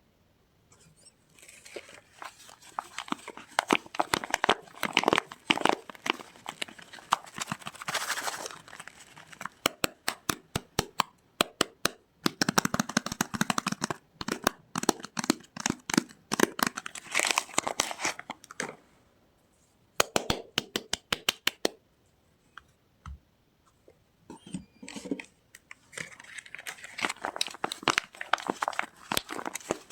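Soap packaging being unwrapped by hand: wrapping crinkling and tearing in long runs of crackles, with two short pauses.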